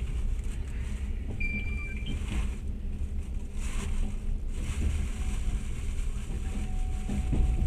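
Steady low rumble and hiss around a train standing at a stop, with a short high chirp about a second and a half in and a faint steady hum coming in near the end.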